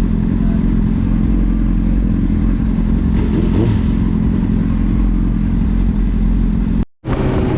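Vehicle engine and road noise while cruising on a highway, a steady drone. The sound cuts out completely for a split second near the end.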